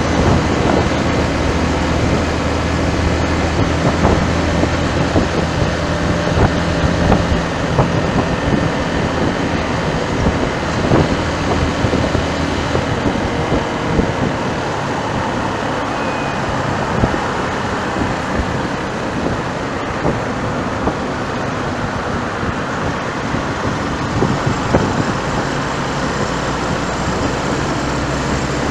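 Road traffic with wind noise: a steady rush of passing vehicles, with a low engine hum in the first few seconds and again near the end.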